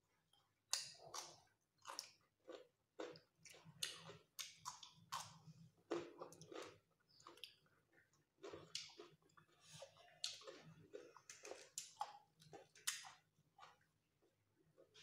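Close-up chewing and mouth sounds of people eating curry, fried soybeans and cucumber salad by hand: a run of irregular sharp clicks, about two a second.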